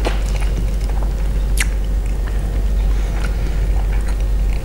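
A person chewing a mouthful of salmon-and-rice sushi wrapped in seaweed close to the microphone, with a few small sharp clicks, the clearest about a second and a half in, over a steady low hum.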